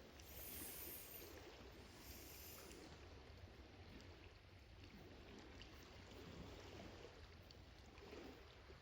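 Near silence: faint outdoor background noise with a low rumble and no distinct event.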